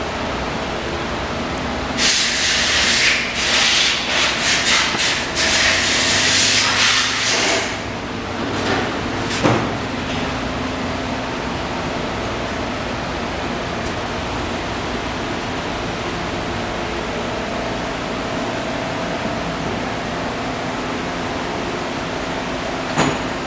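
1998 Honda VFR800 Interceptor's V4 engine idling steadily. A loud hissing spell starts about two seconds in and lasts around five seconds, and there is a sharp click near the end.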